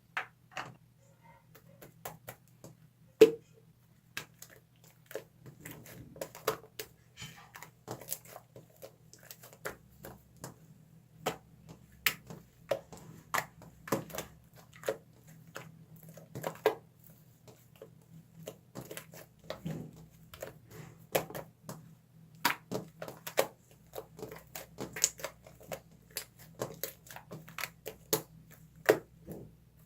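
Slime being kneaded and pressed by hand, giving irregular sticky clicks, crackles and pops, some loud and sharp.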